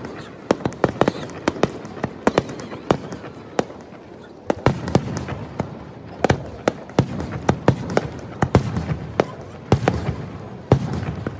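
Fireworks display: a rapid, irregular string of sharp bangs and crackles from bursting shells, several a second.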